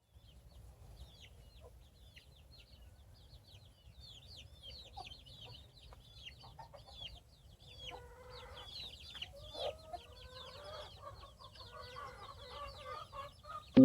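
Chickens, faint: rapid high, falling chirps throughout, with lower clucking calls joining in from about eight seconds in.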